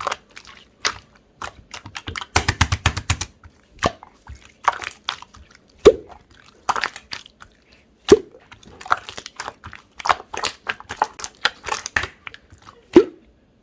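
Slime being squeezed and pressed by hand, giving irregular sticky clicks and crackling pops. A dense run of crackles comes about two to three seconds in, and a few deeper pops come later.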